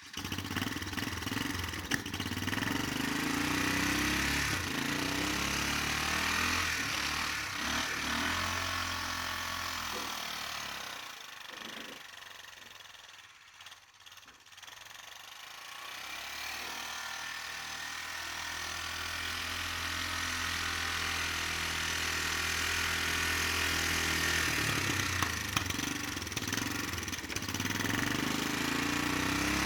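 An ATV (four-wheeler) engine running and working as it pushes snow, its pitch rising and falling with the throttle; the sound fades to a low near the middle, then builds back up.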